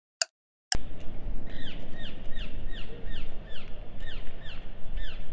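A few sharp clicks about half a second apart over silence. Then street ambience, with a small bird chirping repeatedly, a short high note falling in pitch about two to three times a second.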